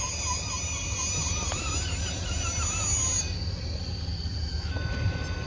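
Electric motor of a radio-controlled scale crawler truck whining, its pitch wavering up and down as the throttle is worked, until about three seconds in. A steady low rumble of wind on the microphone lies underneath.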